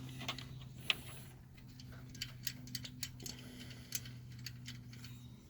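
Scattered small metallic clicks and clinks of loosened 10 mm coil-pack bolts being unscrewed by hand and handled, the sharpest about a second in, over a steady low hum.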